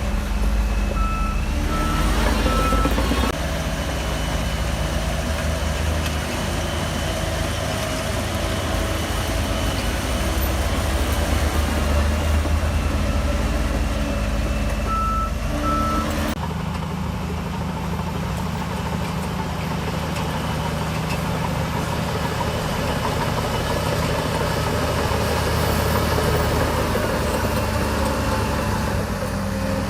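Heavy diesel engine of a SHANTUI DH17C3 bulldozer running under load, with a reversing alarm sounding short high beeps in groups: three about a second in and two a little past the middle. The engine sound changes abruptly just after the middle.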